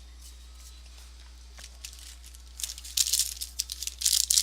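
Trading card pack wrapper being handled, crinkling and tearing in quick, irregular rustles that start a little over halfway in; before that only a low hum.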